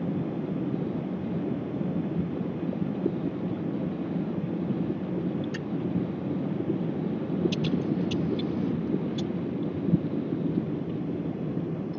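Airbus airliner's jet engines during takeoff, a steady low rumble, with a few brief high clicks about halfway through.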